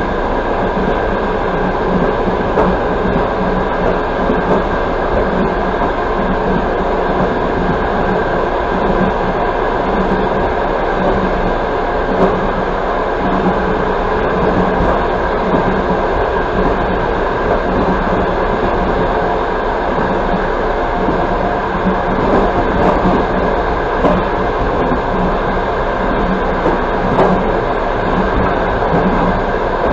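Passenger train running at speed, heard from inside the carriage: a steady rumble of wheels on rail, with a few faint knocks spread through it.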